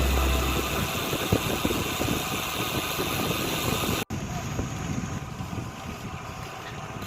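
Wind buffeting the microphone and the steady rush of riding while cycling on a road, with gusty low rumbles. The sound drops out completely for an instant about four seconds in.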